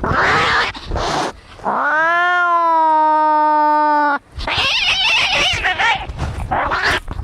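An angry domestic cat hissing and spitting, then letting out one long yowl of about two and a half seconds that rises at first and then holds steady, then hissing again.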